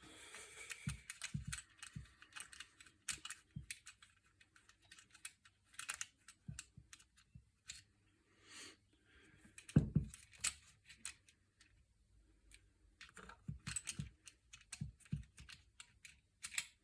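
Scattered light clicks and taps of hand tools and small metal parts being handled while a small lawn-edger engine is taken apart, with one louder knock about ten seconds in.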